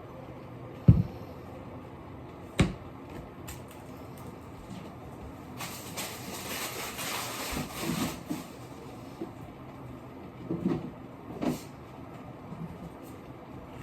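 Kitchen handling sounds: a few sharp knocks and thuds, with a stretch of about three seconds of noisy hiss and rustle in the middle.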